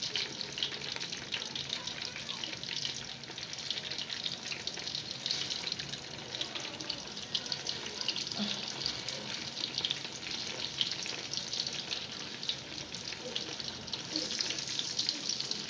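Tomato paste frying in hot oil in a pot: a steady sizzle with many small crackles.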